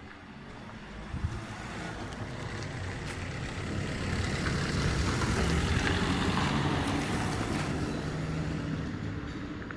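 A motor vehicle driving past. Its engine and tyre noise grows louder over the first half, peaks around the middle and fades away toward the end.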